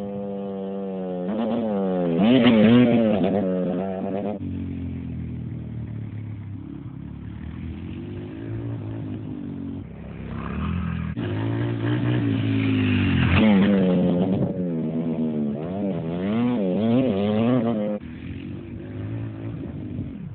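Small dirt bike engine running and revving up and down in repeated throttle blips, settling to a steadier note between them; the sound changes abruptly several times.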